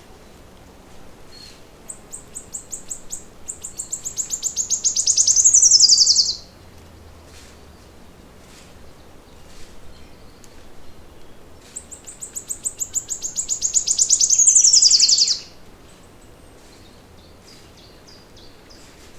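A songbird singing the same long song twice, each time a rapid run of high notes that grows louder and ends in a quick falling sweep. Faint short chirps sound between the songs.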